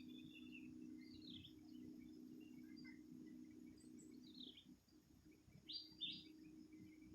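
Birds chirping faintly with a few short, scattered calls, over a low steady hum that fades out about halfway through.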